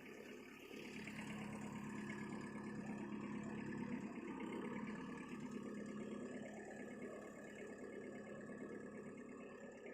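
VST Shakti mini tractor's engine running steadily. It picks up about a second in and eases off again after the middle.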